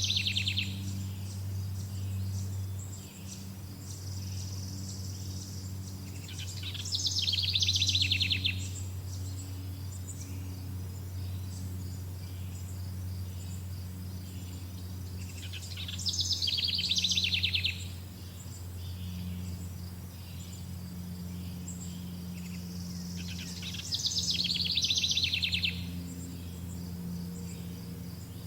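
Bird song: a fast, high trilled phrase about two seconds long, repeated four times at roughly eight-second intervals, over a steady low hum.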